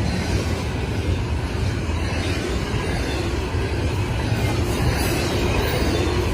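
A train rolling past on the rails, a steady low rumble with wheel-on-rail noise and no horn.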